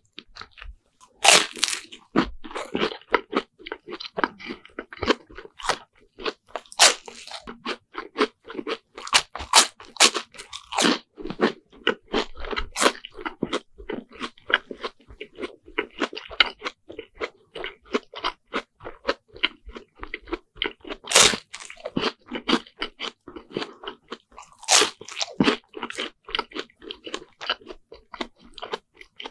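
Close-miked chewing of a deep-fried bread sandwich: crisp, crackly crunching of the fried crust with irregular chewing throughout. A few bites crunch much louder, one about a second in and two more about two-thirds of the way through.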